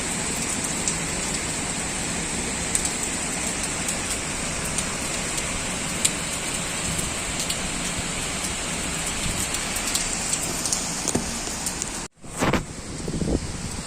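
Heavy typhoon rain pouring steadily, with sharp drop spatters scattered through the downpour. About twelve seconds in, the sound cuts out abruptly. A different, uneven sound with a few thumps follows.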